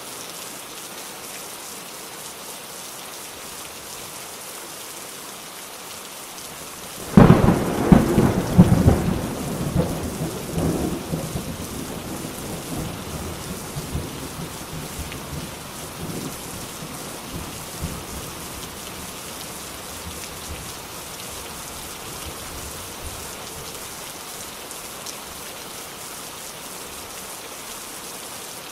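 Steady heavy rain with a thunderclap about seven seconds in: a sudden loud crack followed by rumbling that dies away over the next ten seconds or so.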